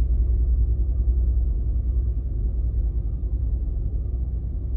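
Low, steady engine rumble on a car ferry, with a faint steady hum above it, as the ferry comes in to dock.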